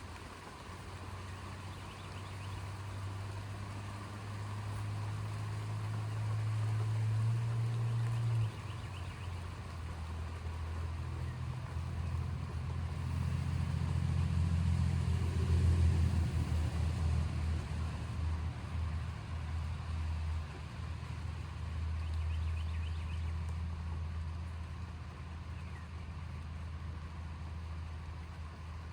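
Long, low rolling rumble of distant thunder, building for several seconds, swelling again to its loudest about halfway through, then slowly fading.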